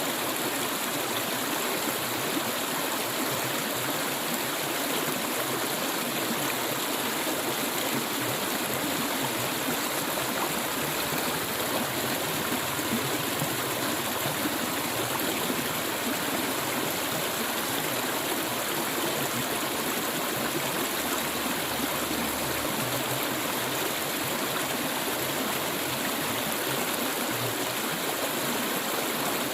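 Stream water flowing steadily, an even, unbroken rush of clear running water.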